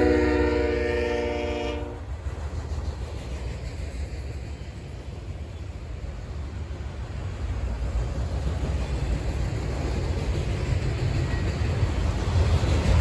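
Locomotive air horn sounding a chord of several notes that cuts off about two seconds in, over the low rumble of a train. The rumble dips, then grows steadily louder near the end.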